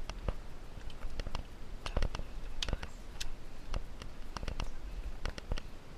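Irregular clicks and knocks over a low rumble: movement noise of hikers scrambling over rock.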